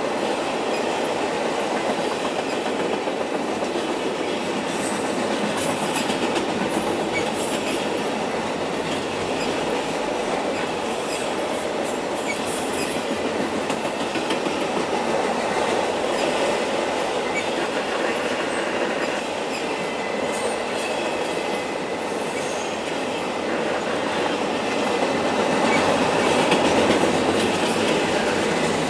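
Freight train of autorack cars rolling past: a steady rumble and clatter of steel wheels on the rails, with brief high-pitched squeaks now and then.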